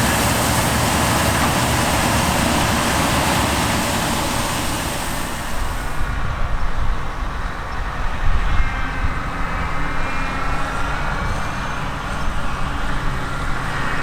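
Heavy harvest machinery running. A dense, steady machine noise changes abruptly about six seconds in to a duller engine sound with a faint whine and an uneven low rumble.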